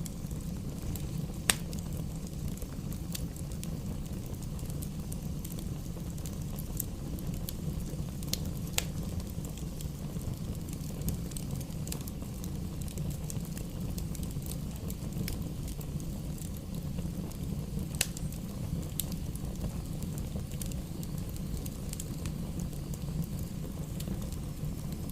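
Campfire burning: a steady low rush of flames with scattered sharp crackles and pops, the loudest about a second and a half in and again about eighteen seconds in.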